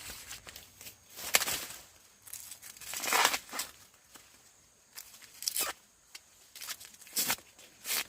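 Dry corn husks and leaves tearing and rustling in about five separate short bursts, as ears of corn are pulled and handled.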